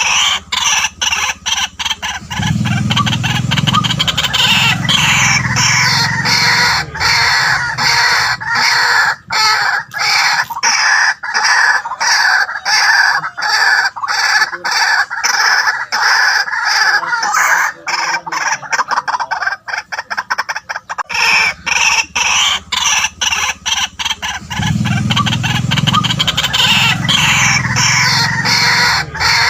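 White-breasted waterhen calling: a continuous run of loud, rapid, harsh croaking notes. A deeper grunting passage comes about three seconds in and again near the end, a repeating call sequence of the kind played to lure waterhens.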